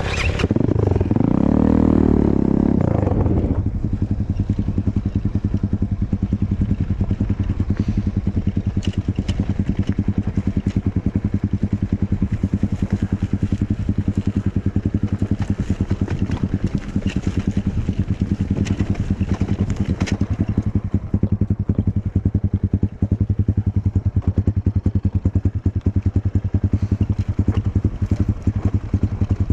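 Enduro motorcycle engine revved briefly near the start, then running steadily at low speed as the bike rides off-road, with occasional knocks and rattles.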